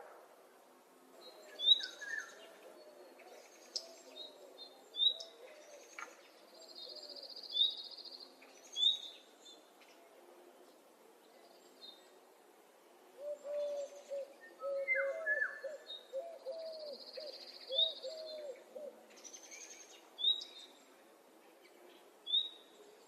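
Birds calling in spring: short high chirps repeated every second or two, with a few longer high notes, and two spells of low wavering calls, near the start and again about halfway through.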